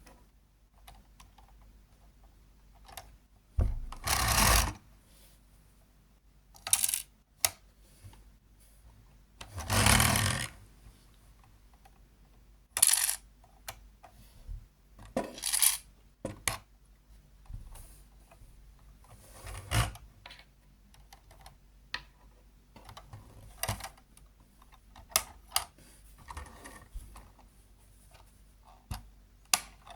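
Hard plastic Lego parts clicking and rattling as the model is handled, with two longer clattering bursts about four and ten seconds in.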